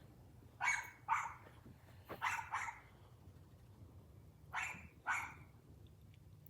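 A dog barking in three pairs of short barks, each pair about two seconds after the last.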